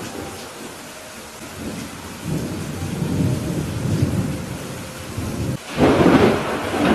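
Steady rain falling, with thunder rumbling low from about two seconds in and a louder, sharper peal of thunder near the end.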